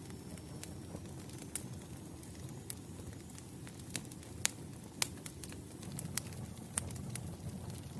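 Wood campfire crackling: irregular sharp pops and snaps from the burning logs over a low, steady rumble of the flames.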